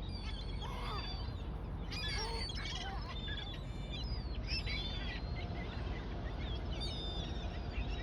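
A flock of gulls calling, many short overlapping cries one after another, over a steady low rumble.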